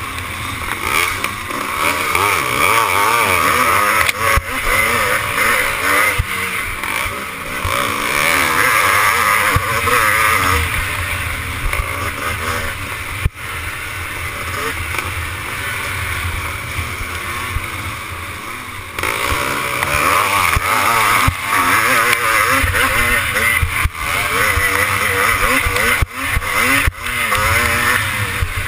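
Classic twinshock motocross bike engine revving up and down continuously as it is raced, with scattered knocks and rattles. The revs ease off for several seconds in the middle before picking up again.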